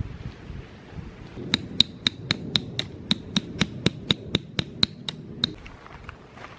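A hammer driving a metal tent peg: about sixteen quick, evenly paced strikes, some four a second, each with a short metallic ring. The strikes start about a second and a half in and stop just past the middle.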